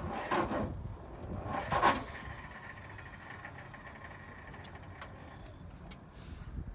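Brass-era speedster's engine being tried and not catching: two short loud noises in the first two seconds, then a low steady rumble.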